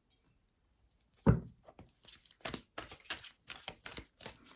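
Tarot cards being handled on a table. There is one sharp knock about a second in, then a quick run of papery rustles and snaps as the deck is shuffled.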